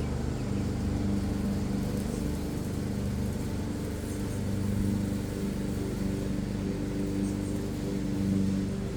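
Steady low mechanical hum of a motor or engine running.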